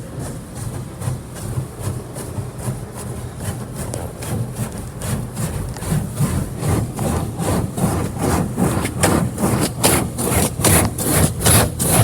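High-pressure water jets from an automatic car wash hitting the car, heard from inside the cabin: rhythmic hissing pulses about twice a second that grow louder as the spray comes closer, over a low steady hum.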